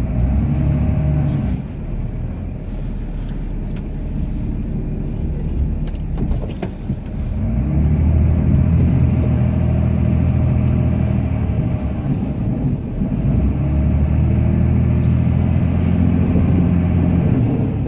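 Cummins inline-six turbo-diesel of a Ram pickup, heard from inside the cab, working under load while plowing snow. It revs up near the start and eases off for several seconds, then pulls hard twice with a short dip between.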